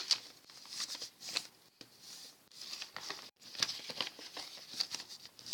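A sheet of paper being folded and creased by hand: irregular soft crackles and rustles.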